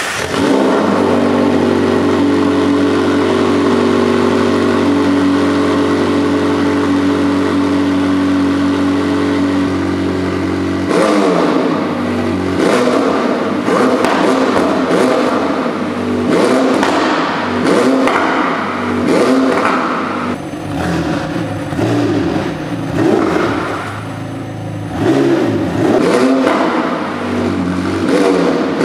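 McLaren 720S's 4.0-litre twin-turbocharged V8 idling steadily. About a third of the way in, it starts being revved in neutral again and again, each rev rising and falling back.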